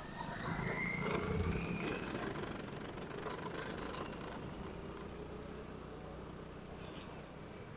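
Motorcycle engine running while riding in traffic, a steady hum with road noise, a little louder in the first couple of seconds.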